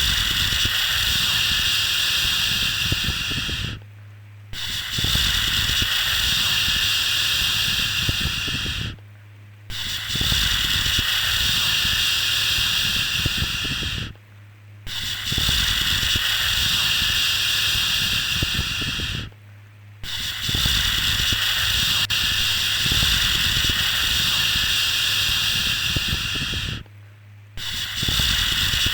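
A long 'shhh' shushing sound for soothing a baby, repeated over and over. Each shush lasts about four to seven seconds and is followed by a pause of under a second. In each pause only a faint low hum is left.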